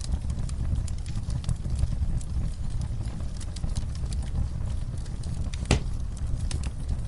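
Wood fire crackling: a steady low rumble with frequent sharp pops and snaps, one louder snap near the end.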